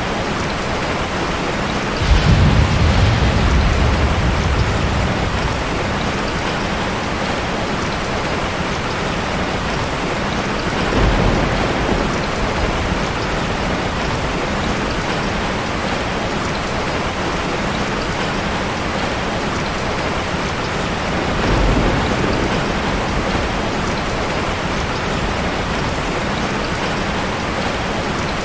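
Heavy rain falling steadily, with three low rumbles of thunder: the loudest about two seconds in and lasting a few seconds, weaker ones near the middle and about three quarters of the way through.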